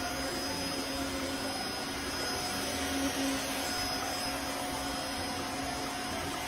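A small motor running steadily: an even rushing noise with a faint steady hum in it.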